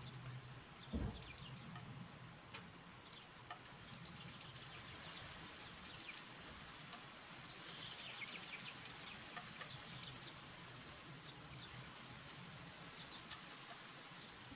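Small songbirds giving many short, high chirping call notes in scattered bursts, over a steady high hiss of outdoor background. A single low thump about a second in.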